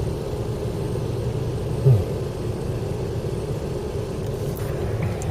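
Car running with its heater fan blowing, heard from inside the cabin: a steady low rumble, with one brief louder low sound about two seconds in.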